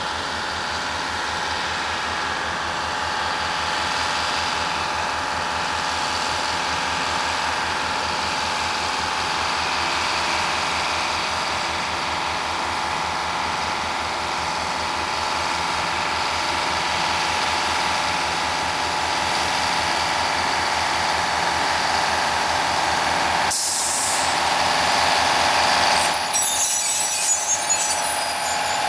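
Railroad engine running steadily with a steady high whine over it. A short burst of noise comes about 24 seconds in, and the sound changes a little after that.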